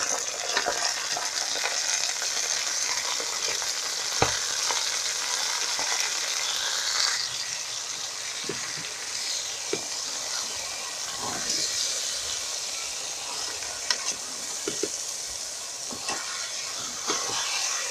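Spinach sizzling in a pot of hot oil with onions and smoked fish as it is stirred in: a steady frying hiss with a few sharp knocks, the loudest about four seconds in.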